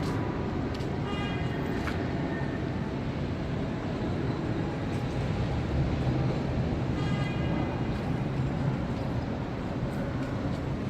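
Steady low rumble of city ambience, such as traffic or trains, with brief high-pitched squeal-like tones about a second in and again around seven seconds in.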